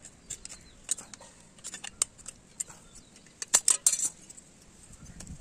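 Small metal parts clinking and tapping as they are handled, in scattered sharp clicks with a louder cluster of them about three and a half seconds in.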